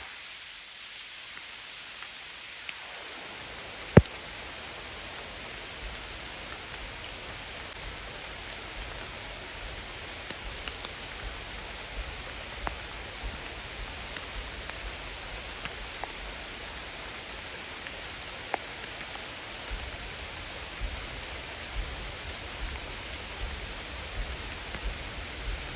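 Steady outdoor hiss, rain-like, with scattered small ticks and one sharp click about four seconds in; a low rumble joins in the last several seconds.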